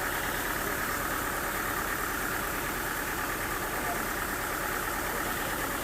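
An engine running steadily at an even speed, with no cutting or load changes.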